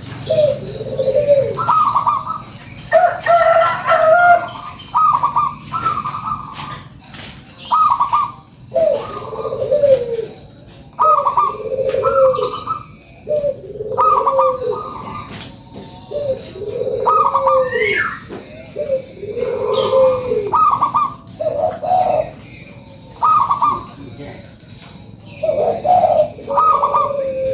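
Zebra dove (perkutut) singing its cooing song: a long run of short coos, lower and higher notes alternating, about one a second.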